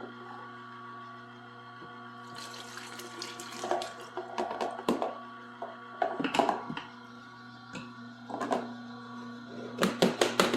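An electric juicer's motor hums steadily. From about two seconds in, irregular clattering and liquid splashing join it: pieces are being fed through and the juice is running and being strained.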